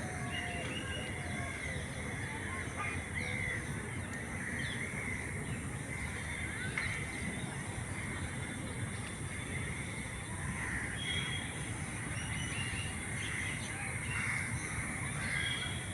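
Many birds calling in short, overlapping chirps and caws over a steady background of outdoor noise.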